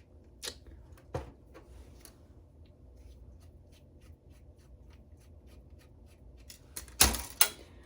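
Small screwdriver working screws on a computer drive part: light clicks and a run of faint ticks at about three to four a second. Near the end comes a louder clatter of two or three metal-and-plastic knocks as the part is handled.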